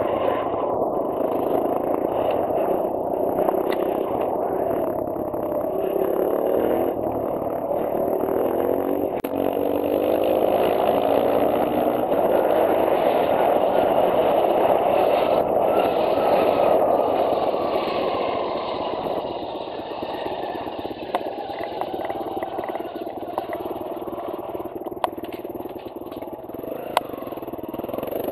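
2009 Kawasaki KLX140L dirt bike's single-cylinder four-stroke engine running while the bike is ridden, the revs rising and falling, quieter for a stretch in the later part, with a couple of sharp clicks. This is the bike that has a grinding noise in fifth gear.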